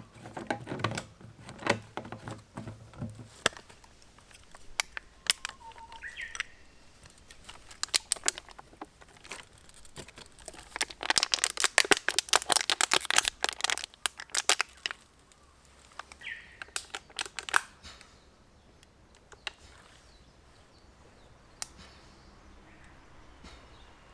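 Irregular clicks and crinkling, densest in a burst of rapid crackling for a few seconds in the middle, with a few short bird chirps.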